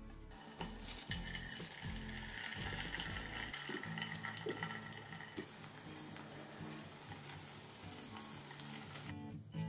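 Egg-coated sausage slices sizzling as they fry in hot oil in a frying pan, a steady hissing crackle that starts about half a second in and stops abruptly near the end.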